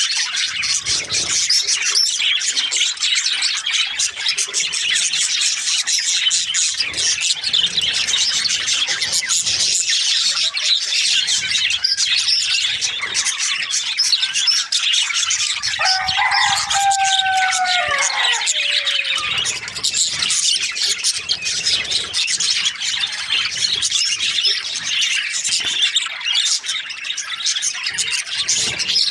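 A flock of budgerigars chirping and chattering continuously, many overlapping high twittering calls. About halfway through, a lower, longer call with a falling pitch stands out for two or three seconds.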